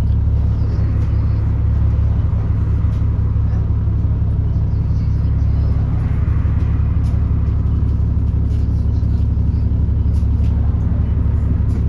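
Alexander Dennis Enviro400 double-decker bus running, a steady low rumble with a faint, even whine above it. The noise swells briefly about a second in and again around six seconds.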